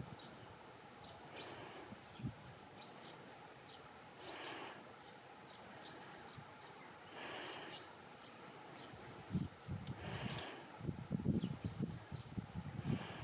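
Insects, crickets or similar, chirring steadily in a high, finely pulsing trill. Brief rustles come about every three seconds, and low buffeting, likely wind on the microphone, comes in near the end.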